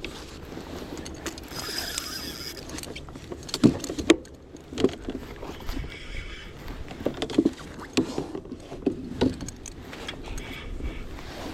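Knocks and thumps on a fishing kayak, about a dozen scattered through, the loudest about four seconds in, over a steady low background, with a short high whir about two seconds in.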